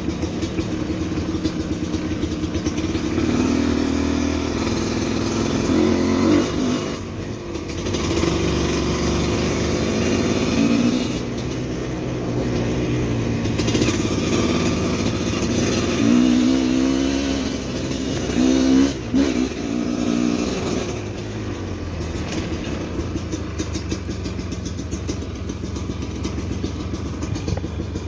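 Motorcycle engine running under way, its revs rising and falling several times.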